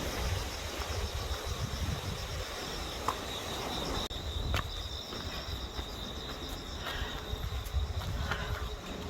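Outdoor ambience: wind rumbling on the microphone under a steady, high insect-like trill, with a few faint clicks.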